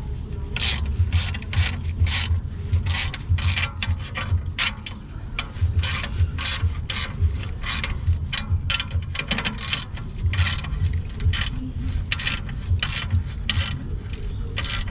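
Hand ratchet wrench being cranked back and forth to tighten muffler clamp nuts: a rasping ratchet stroke about three times a second, over a steady low rumble.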